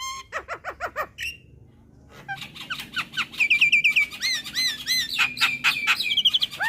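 Javan myna (jalak kebo) singing: a quick run of chirps, a brief pause, then dense chattering mixed with squawks and repeated rising whistled notes.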